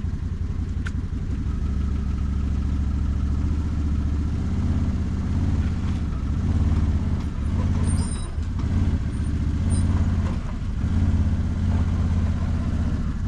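Engine of a working machine, apparently used to lift and move a beam, running steadily at low speed, its level swelling and easing as it works, with a few short clinks about eight seconds in.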